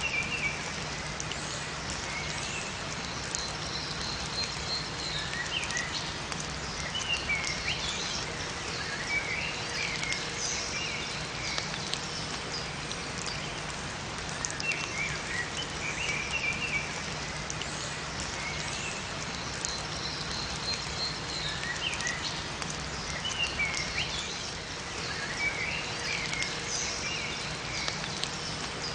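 Steady rain falling in a forest, with small songbirds chirping in short phrases that recur every few seconds.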